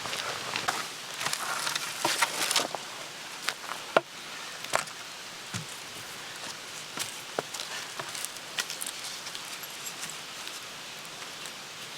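Rustling and shuffling with scattered sharp clicks and knocks, the loudest two about four and five seconds in.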